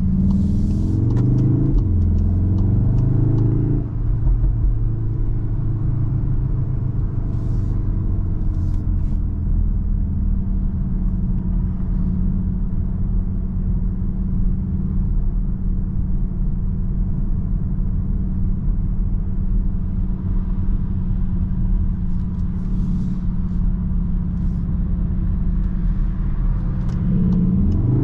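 Cupra Formentor VZ5's turbocharged five-cylinder engine heard from inside the cabin: it rises in pitch under acceleration over the first few seconds, with a brief dip about four seconds in, then settles into a steady drone with road noise while cruising, and rises again near the end.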